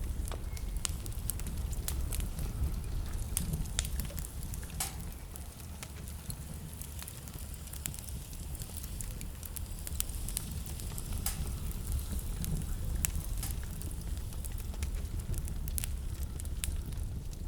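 Wood fire burning in a fireplace, crackling with sharp, irregular pops scattered throughout, over a steady low rumble.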